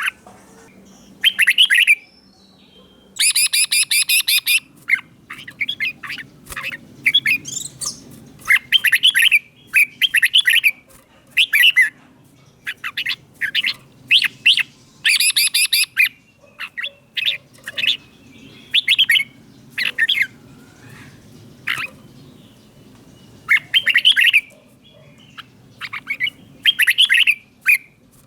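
Red-whiskered bulbul singing: short, loud phrases of quick, bubbly whistled notes, repeated every second or two with brief pauses, with a longer rapid run of notes about three seconds in.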